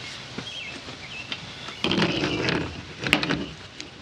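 Handling noises of workshop tools and parts: a rustling, scraping stretch about two seconds in, then a sharp click a second later. Faint high chirps are heard in the first second.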